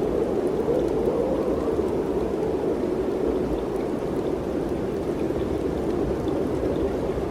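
Wind blowing steadily, a low even rush that swells slightly about a second in.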